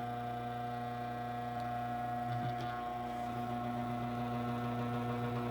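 KoMo grain mill's electric motor running with a steady hum, the mill set to its finest grind, with a few faint ticks near the middle.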